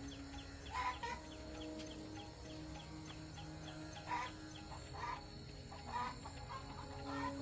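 A few short animal calls, about five spread through, over soft steady background music, with a light fast ticking in the first half.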